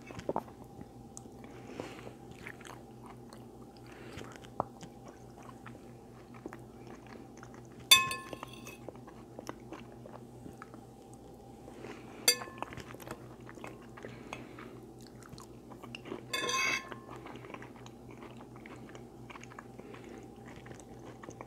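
Close-up chewing and mouth sounds of someone eating, with some crunch, over a faint steady hum. A utensil clinks and scrapes against the dish three times, ringing briefly, the first the loudest.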